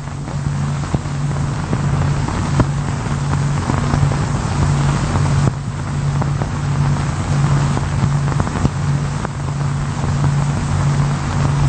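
Steady drone of machinery: a low hum with a hiss over it, dipping briefly about halfway through.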